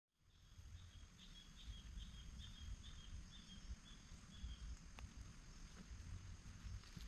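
Rainforest ambience fading in: a steady high insect drone, with a bird calling a run of short repeated notes, about two a second, that stops about four and a half seconds in. A low rumble runs underneath, and there is a single click about five seconds in.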